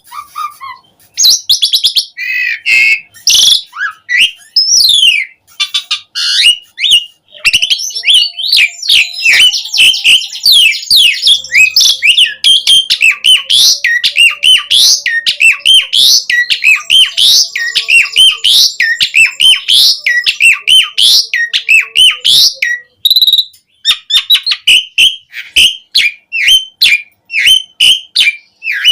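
Asian pied starling (jalak suren) singing loudly in full song: a fast, varied stream of whistles and chirps with short clicky notes. The song is densest through the middle and turns into a run of quick repeated notes near the end.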